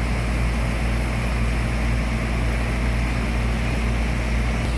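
A large engine running steadily with a low drone, under an even hiss.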